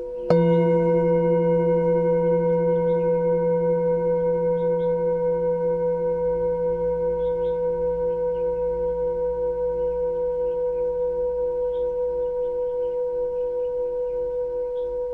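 Singing bowl struck once, then ringing on and slowly fading with a steady wavering pulse. Small birds chirp faintly throughout.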